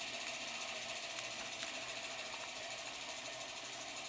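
Heavy ceiling-fan rig on a vacuum cleaner motor coasting down with the power off: a faint, steady whir with a rapid, even ticking. The motor's brushes act as a slight brake on the spinning mass.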